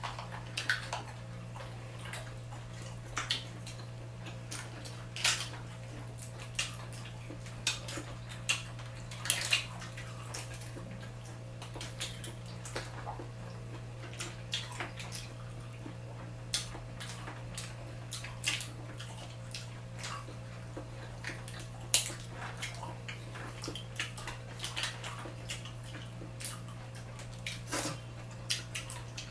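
Wet eating sounds from a seafood meal: many scattered short smacks and clicks of chewing and handling shrimp, irregular throughout, over a steady low hum.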